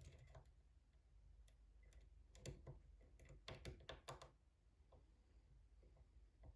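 Faint, scattered clicks of a thin lock pick working the pins inside a pin-tumbler challenge lock, most of them bunched around the middle.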